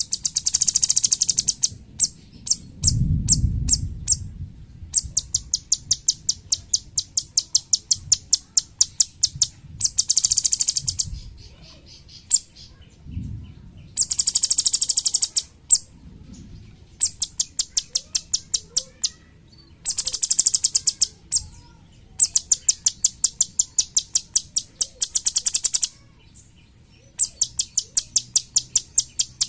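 Cucak cungkok songbird singing in bursts of very high, sharp notes: fast rattling trills of a second or so alternate with runs of separate chips a few per second. This is the rapid 'tembakan' (shooting) song prized as master song for training other songbirds. A low thump sounds about three seconds in.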